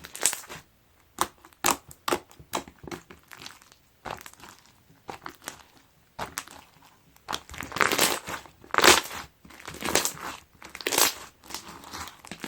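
Slime mixed with bean bag foam beads being squeezed and pressed, giving runs of small clicks and crackles as the beads shift and pop. The crackling is densest and loudest in stretches about eight to eleven seconds in.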